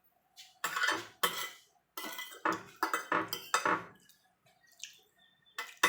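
Cutlery scraping and clinking against a plate while eating, in a quick run of strokes from about half a second to four seconds in, then twice more near the end.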